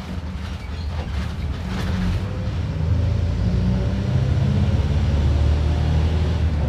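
Front-mounted diesel engine of a Mercedes-Benz OF-1721 BlueTec 5 city bus, growing louder over the first three seconds as it works harder, then running at a steady drone.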